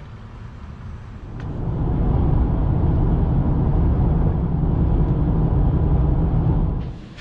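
Steady vehicle rumble of engine and road noise, swelling in over about a second and cutting off sharply near the end.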